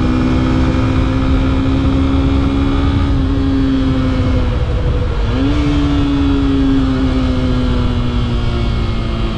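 Yamaha FZ-S V3's 150cc single-cylinder engine running on the move, its note sagging slowly. About halfway the note dips briefly and then jumps back up before sagging again, over a steady low rumble.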